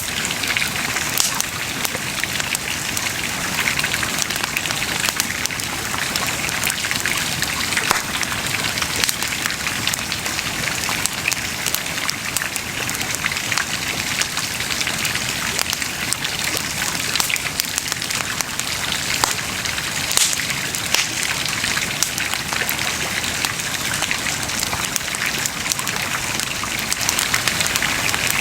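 Wood bonfire crackling steadily, with a constant patter of small pops and a few louder snaps.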